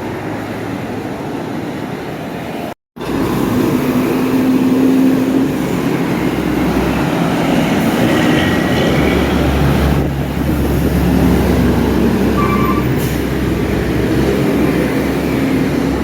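Roadside traffic noise with a heavy vehicle, likely a bus, passing: a steady rush of engine and tyre noise, with a deep rumble that swells from about seven to thirteen seconds in. The sound cuts out briefly just under three seconds in.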